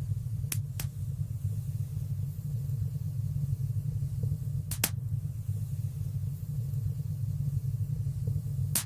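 Fire burning in a fireplace: a steady low rumble of flames with sharp crackling pops, four of them, two close together near the start, one in the middle and one at the end.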